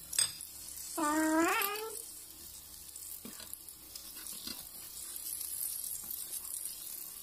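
Moringa omelette patties sizzling in oil in a nonstick frying pan, with a few faint taps of a plastic spatula. About a second in, one drawn-out, meow-like call, rising at its end, is the loudest sound.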